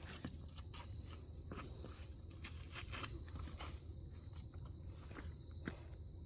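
Irregular footsteps crunching on a rocky trail, over a steady high-pitched insect trill.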